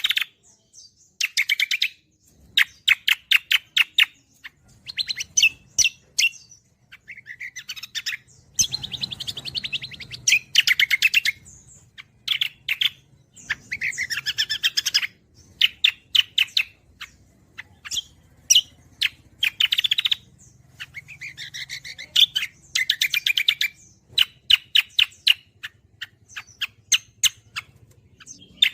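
Cucak kombo songbird singing hard in the gacor style: phrase after phrase of fast, high chattering trills, each about one to two seconds long with short breaks between.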